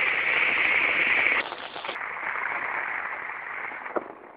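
Rain falling on a car and the ground around it: an even hiss that drops in level about a second and a half in and fades toward the end, with a single click near the end.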